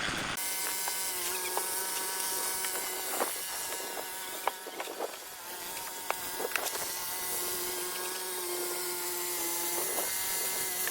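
A small engine droning at a steady pitch, with a few sharp clicks and knocks scattered through it.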